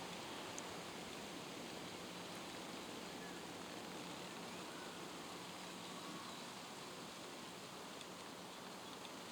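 Faint, steady outdoor background hiss with a faint low hum underneath and no distinct calls.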